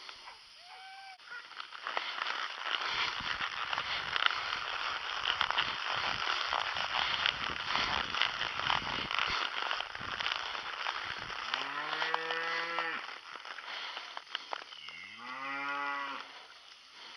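A cow mooing twice, a long call about twelve seconds in and a second call a few seconds later that rises at its start. Before the calls there are several seconds of loud, rough rushing noise with crackles.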